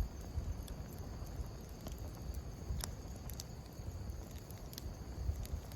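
Outdoor ambience: a steady high chirring of insects over a low rumble, with scattered light clicks and taps.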